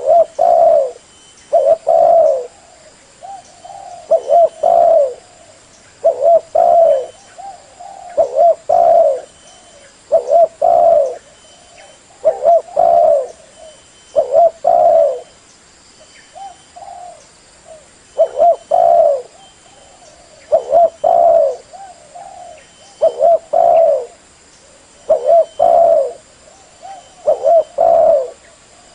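Spotted dove cooing: a steady series of low, mellow coo phrases, a new phrase about every one to two seconds.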